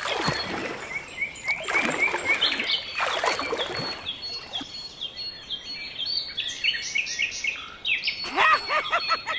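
Birds chirping in a series of short, evenly repeated calls, with a few bursts of hissing noise in the first few seconds and a quick run of higher calls near the end.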